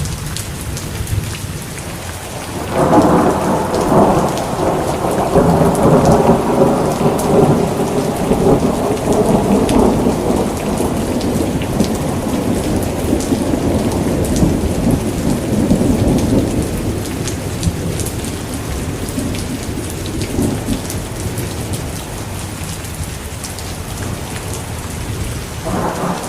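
Steady heavy rain with a long roll of thunder that builds about three seconds in and slowly dies away; another rumble of thunder starts near the end.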